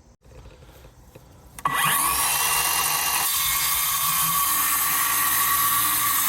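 Power drill spinning up about a second and a half in and running steadily for about five seconds, working into wood.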